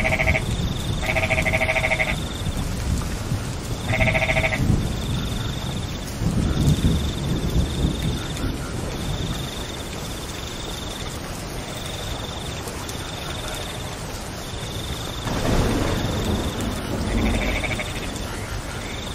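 Rain falling steadily, with a low rumble underneath. Over it, a high pulsing trill repeats in stretches of about a second, and there are short animal calls, three in the first five seconds and a couple more near the end.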